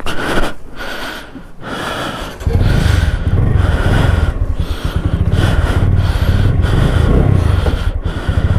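A few short breathy puffs close to the microphone, then a carbureted motorcycle engine starts at the first attempt about two and a half seconds in and settles into a steady idle. It is a cold start in sub-zero temperatures.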